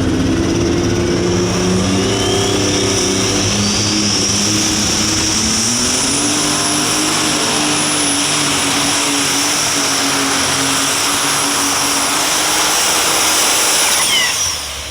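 Unlimited Super Stock pulling tractor's turbocharged diesel engine at full power under load while pulling the sled, with a high turbo whine that climbs steeply over the first few seconds and then holds. The engine comes off power abruptly about a second before the end, at the end of the pull.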